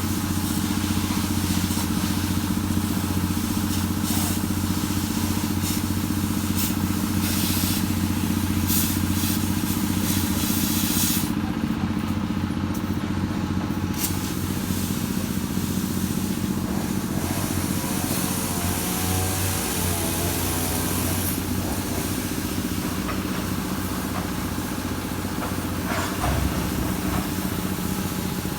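Engine running steadily at an even speed, a constant low drone.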